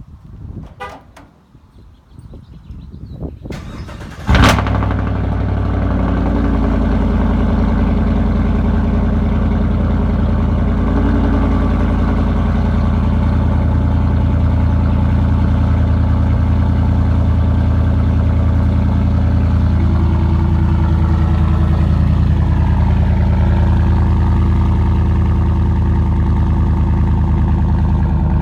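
A 2017 Chevy Silverado's 6.2-litre V8 with its mufflers deleted, cold-started. After a few clicks, the starter cranks briefly and the engine catches loudly about four seconds in. It then runs at a steady, loud fast idle, its note shifting slightly about twenty seconds in.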